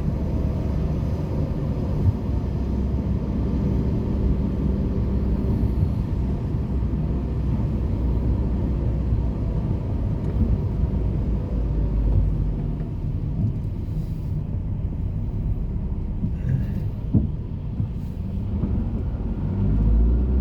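Steady low rumble of road traffic or a moving car, with a few faint knocks.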